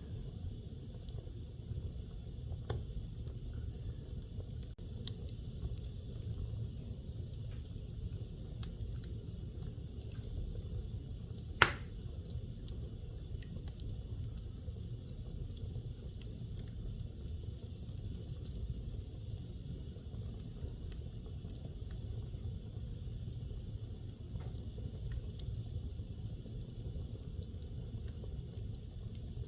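Wood fire burning in a fireplace: a steady low rumble with scattered small crackles, and one sharp, loud pop about twelve seconds in.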